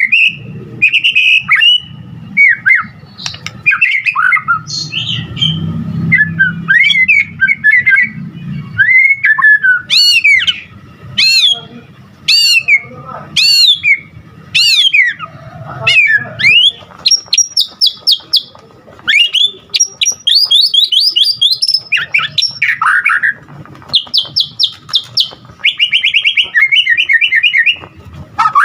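White-rumped shama singing loudly and continuously, a varied song packed with mimicked phrases of other birds: twisting whistles, then a series of down-slurred whistles about once a second, then bursts of rapid high trills.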